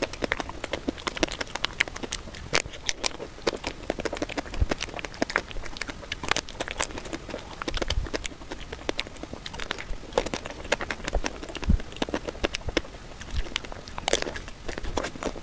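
Close-miked eating sounds of a person eating chocolate ice cream: a dense, irregular run of quick wet mouth clicks and bites.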